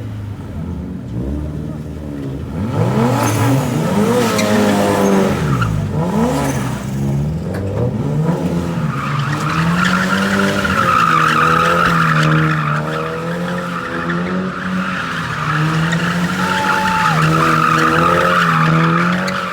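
A drift car's engine revving up and down hard, with tyres squealing loudly from about nine seconds in as the car slides.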